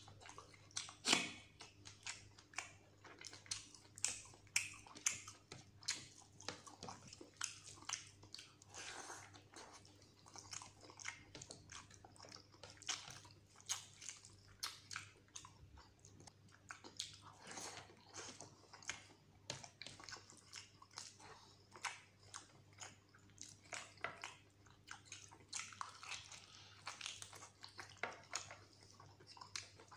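Close-miked chewing of mutton curry and rice, with many short irregular mouth clicks, over a faint steady low hum.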